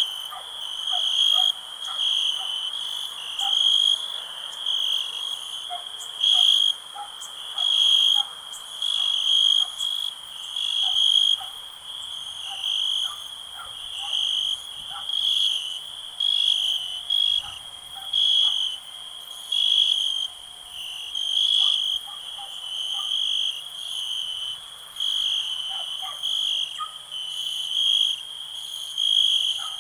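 Crickets chirping in a steady high-pitched chorus, swelling into louder pulses about once a second. Faint, short, lower-pitched calls are scattered through it.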